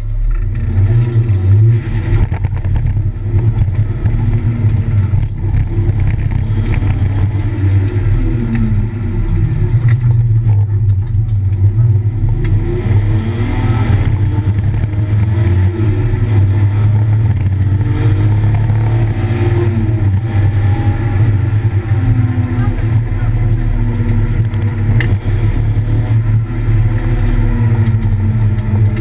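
BMW E36 engine heard from inside the cabin at track speed: a loud, steady low drone with the revs rising and falling again and again as the car is driven hard.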